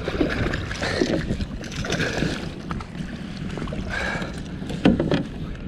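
Wind on the microphone and water against a kayak's hull, with a few knocks of gear being handled aboard, the loudest near the end.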